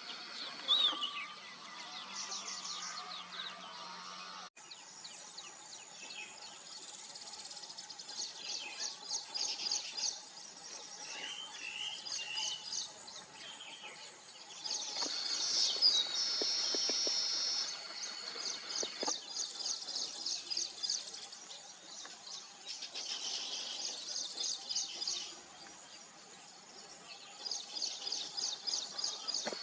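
Weaver birds chattering, with repeated rapid, high-pitched trills and chirps from several birds.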